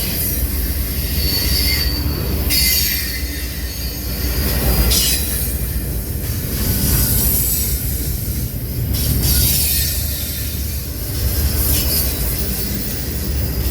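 A train rolling past, with a steady deep rumble and high-pitched wheel squeal that comes and goes every few seconds.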